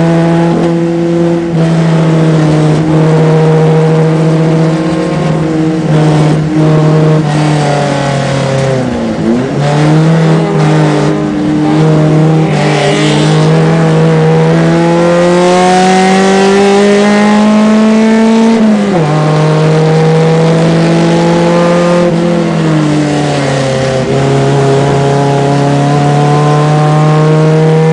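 BMW 2002 race car's four-cylinder engine heard from inside the cockpit, running hard at high revs on track. The revs drop sharply twice as the driver lifts off, and in between climb in a long steady rise through a gear before falling again near the end.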